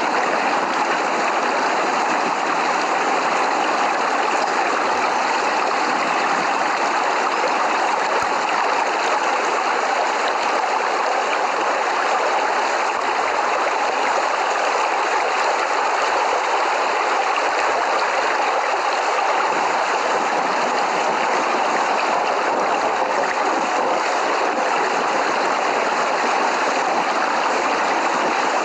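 Steady, dense rainfall: an even, continuous rushing hiss with no thunder.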